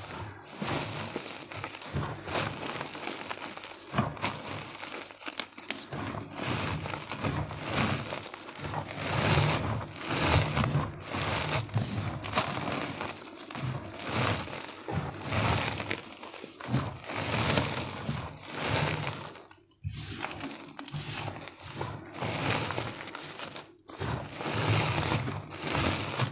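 Blocks of gym chalk being crushed and crumbled: dense, continuous crunching and crackling with a few short pauses.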